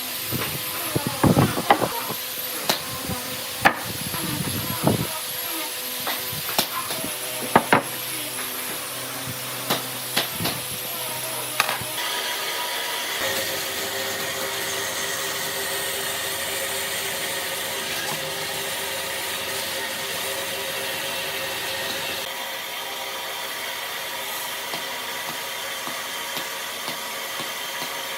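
Woodworking sounds: irregular knocks and taps on wood for about the first twelve seconds, then a steady hissing hum of a running tool or machine.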